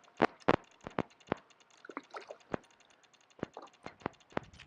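Scattered sharp clicks and light knocks at an uneven pace, the two loudest within the first second.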